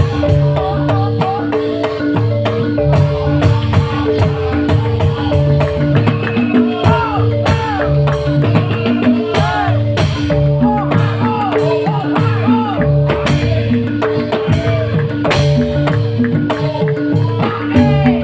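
A live band playing: a steady drum and percussion rhythm under held keyboard notes, with a melody line bending up and down above them.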